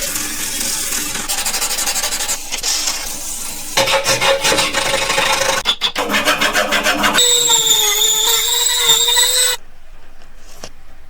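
Rasping and rubbing on metal, as of filing or sanding during a rust-removal restoration, in a run of short cuts that change abruptly every few seconds. A wavering whine runs through one cut, and the sound drops much quieter near the end.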